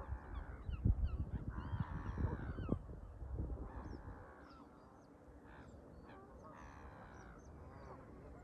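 Canada geese honking repeatedly, several calls in a row. Wind buffets the microphone in low thumps during the first few seconds.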